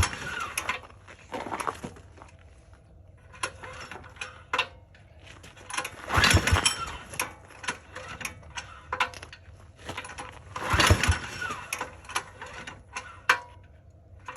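Supercharged diesel mini bike engine being cranked for a cold start, three times, each a burst of about a second as it turns over without catching, with clicks and knocks of handling between attempts. It fails to fire, with the compression release left unpulled.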